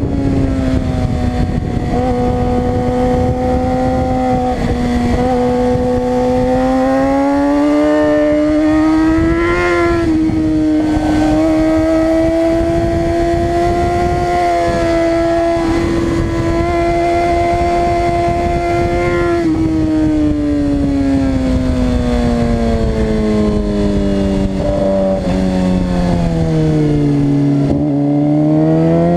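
Suzuki GSX-R 600 inline-four engine running at high revs on track, its pitch held mostly steady with small shifts, then falling slowly over several seconds before climbing again near the end. A steady rushing noise runs underneath.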